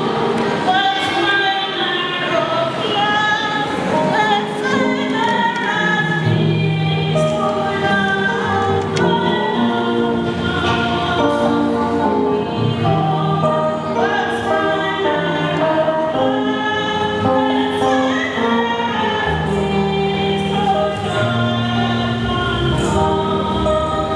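A church choir singing a praise song in harmony, many voices over a steady low accompaniment.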